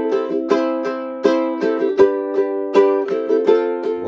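Ukulele strummed in a steady rhythm, chords struck about every three-quarters of a second with lighter strokes between, without singing.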